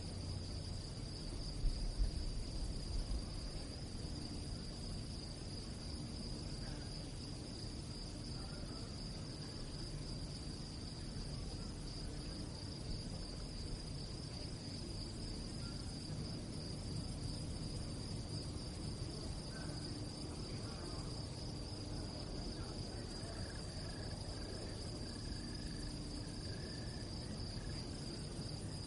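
Crickets chirping in a steady, unbroken high-pitched trill over a low rumble, with a few low bumps about two seconds in.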